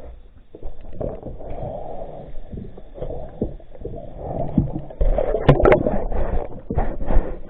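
Muffled underwater noise: a rumbling wash of water with scattered clicks and bubbling, growing louder about five seconds in, typical of a scuba diver's breathing bubbles near the camera.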